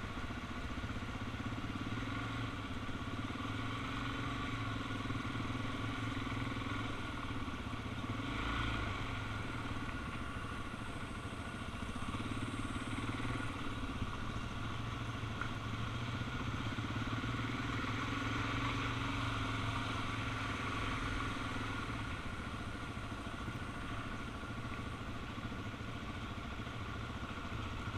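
Suzuki DR-Z400 single-cylinder four-stroke motorcycle engine running while riding at a fairly steady speed, its pitch easing and picking up slightly a few times, under steady wind and road noise.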